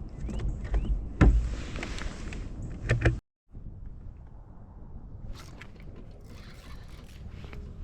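Wind rumbling on the microphone, with knocks and scrapes on a kayak and one loud thump about a second in. The sound cuts out briefly around three seconds and comes back as a quieter steady hiss with light clicks.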